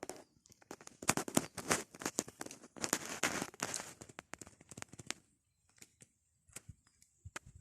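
Crinkling and crackling handling noise, made of many sharp clicks packed closely together for a few seconds. It thins out to a few separate clicks in the last couple of seconds.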